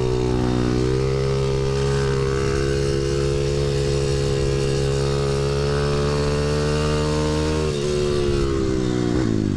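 Pit bike engine held at high revs on a fast lap, its pitch rising a little at first and then steady. About eight seconds in the revs dip briefly, and near the end they fall and rise again as the rider shifts and eases off.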